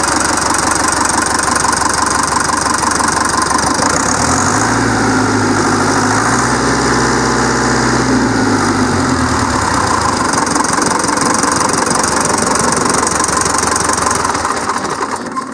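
Deutz F4L912 air-cooled four-cylinder diesel running with a knocking diesel clatter. About four seconds in it revs up, holds, and settles back to idle around ten seconds in. The sound drops in level near the end.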